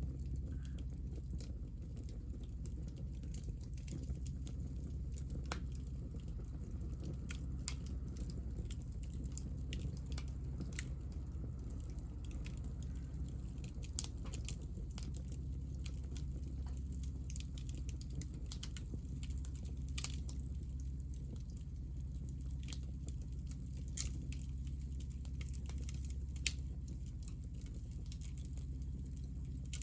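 Hinoki cypress offcuts burning in a wood fire: a steady low rumble of flame with sparse, sharp crackles and pops, one louder pop near the end.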